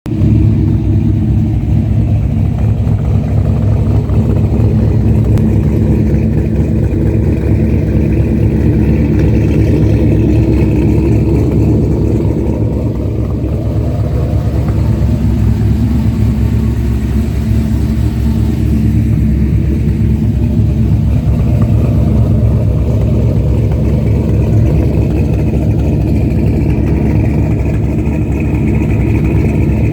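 1982 Chevrolet C10 pickup's engine idling steadily through a Corvette exhaust, a loud, deep exhaust note.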